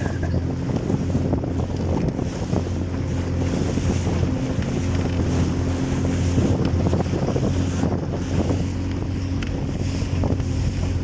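Motorboat engine running steadily with the boat under way, with wind buffeting the microphone.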